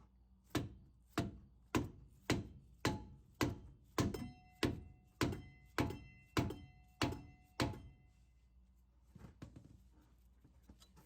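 Steel hammer blows on the stuck bolt through a truck's upper control arm: thirteen even, metallic ringing strikes, a little under two a second, then a few lighter knocks near the end. The bolt is seized and will not drive out.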